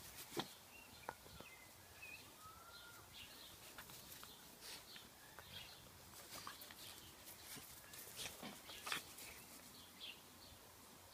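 Near silence, with faint bird chirps a few times and scattered soft ticks and rustles.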